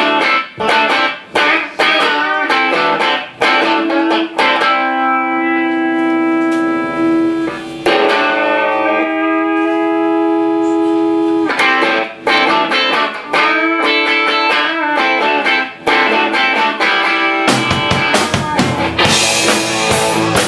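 Electric guitar playing a song's opening: sharply struck chords, then two long held chords left to ring, then choppier chords again. About three-quarters of the way through the sound fills out with low notes and a bright hiss as the rest of the band comes in.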